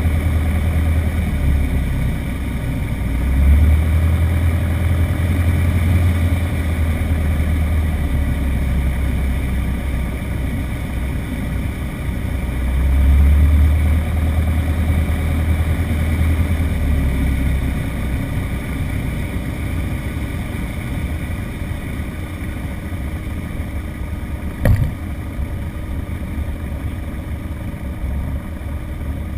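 CubCrafters Carbon Cub light aircraft's engine and propeller running with a steady drone and a heavy low rumble that swells twice, during a landing. A single sharp knock comes about 25 seconds in.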